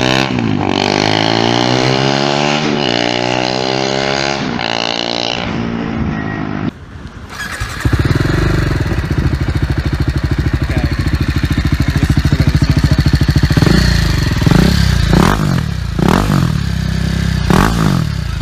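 BMW G310GS single-cylinder engine revved up and down repeatedly through an SC Project full exhaust system. After a brief cut, the same engine idles with a steady low pulse through an Akrapovic slip-on muffler, with several quick throttle blips near the end.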